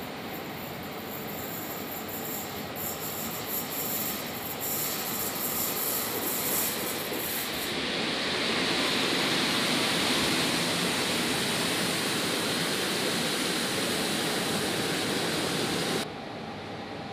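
Electric locomotive hauling passenger coaches running along the track beside a covered station platform, the running noise growing louder about eight seconds in as it draws close. The sound cuts off suddenly near the end.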